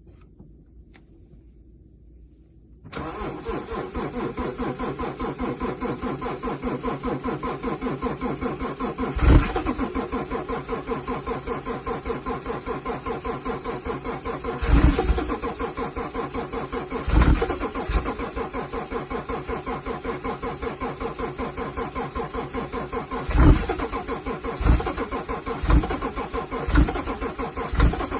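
A BMW engine started from cold at −17 °C: it catches suddenly about three seconds in and keeps running with an even pulsing idle. Several brief louder bursts break in later, more often near the end.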